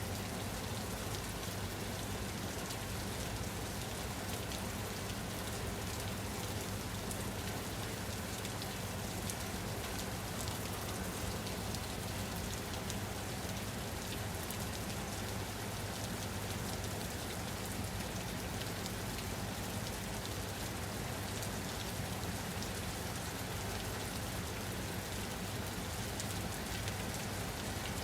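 Steady rain falling on a surface, a constant hiss of many fine drop ticks over a low rumble, unchanging throughout.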